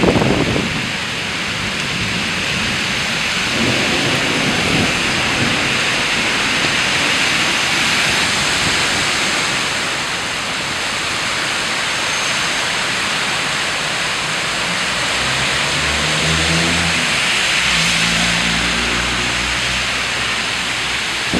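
Steady heavy rain during a thunderstorm, with low rumbles of thunder early on. In the last third a low, steady engine-like hum joins the rain.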